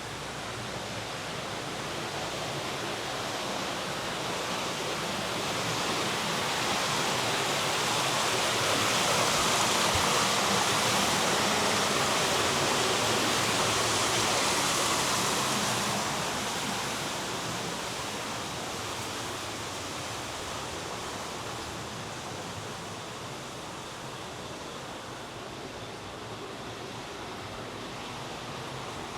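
Rushing water, a steady hiss that grows louder over the first ten seconds or so and fades again after about sixteen seconds.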